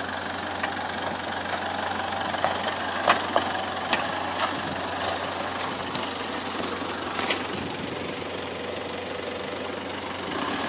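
Isuzu 4x4's engine running steadily at low revs as it crawls over rock, with a few short sharp knocks about three, four and seven seconds in.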